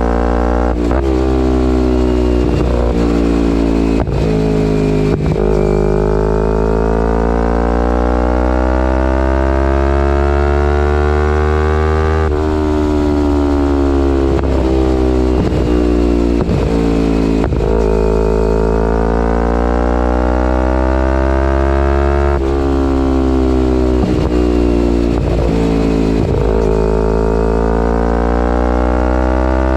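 2011 Kawasaki Ninja 250R's parallel-twin engine through a full Graves race exhaust while riding, its pitch sinking and rising slowly with the throttle. Several brief dips break the exhaust note.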